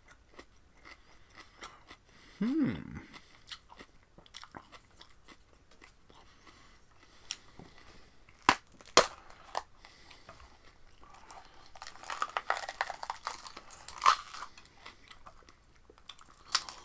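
A person biting and chewing crisp raw vegetables close to the microphone: scattered wet crunches, two sharp snaps about halfway through, and a spell of steadier crunching near the end. A brief hum comes about two and a half seconds in.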